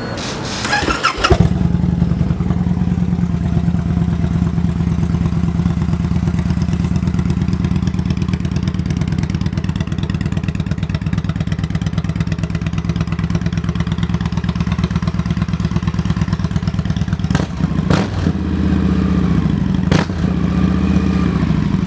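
A 2012 Victory Vegas's 106-cubic-inch V-twin turns over on its starter for about a second, then catches and idles steadily through its stock exhaust. Near the end the engine speed rises and falls briefly a couple of times, with a few sharp clicks.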